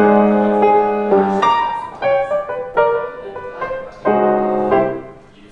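Background music: piano chords struck and left to ring, fading away near the end.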